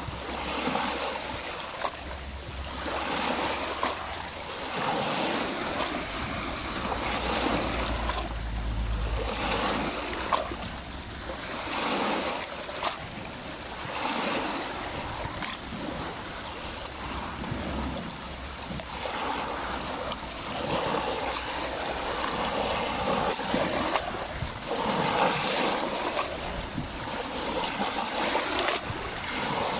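Small lake waves lapping against the shore, the splashing swelling and easing every second or two.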